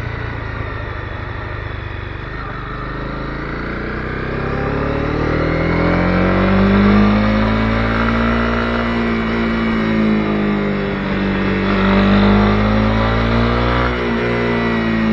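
Honda CB250R single-cylinder motorcycle engine running under way, its pitch rising and falling as the throttle opens and closes, from about four seconds in.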